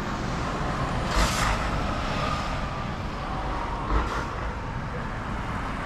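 Street traffic: steady road noise with vehicles passing close by, swelling louder about a second in and again about four seconds in.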